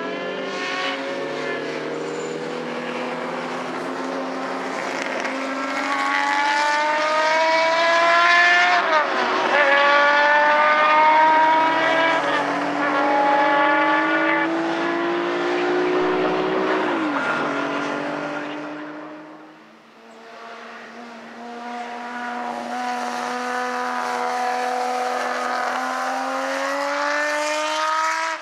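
Historic racing car engines accelerating hard, pitch climbing and dropping sharply at gear changes about nine and seventeen seconds in. The sound fades around twenty seconds in, then another engine builds up again.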